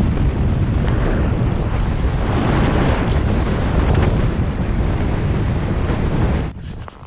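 Wind buffeting the microphone from a moving car: a loud, steady rushing rumble that drops off abruptly about six and a half seconds in.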